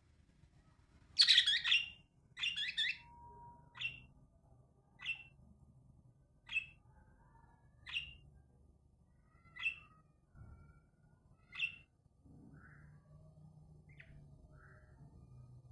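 A bird calling: two loud, harsh, rasping calls, then a run of about six short, sharp chirps spaced a second or more apart, ending in a few faint calls.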